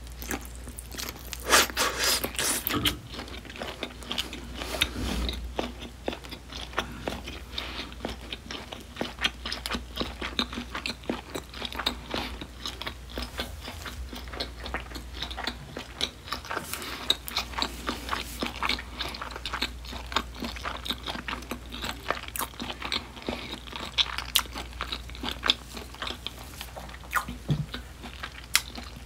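Close-miked chewing and biting of smoked duck slices: wet mouth sounds with many sharp clicks and smacks.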